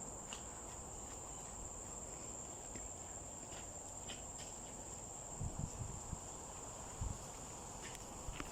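Steady high-pitched drone of insects in the forest, with a couple of soft low thumps about two thirds of the way through.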